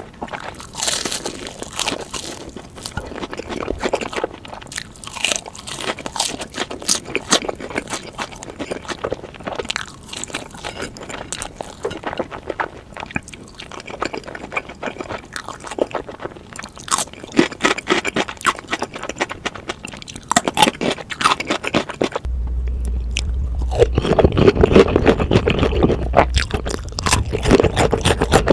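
Close-miked crunching and chewing of sweet glazed Korean fried chicken, sped up to double speed, in quick irregular bites. Late on, the sound switches to a louder recording with a steady low hum under the chewing.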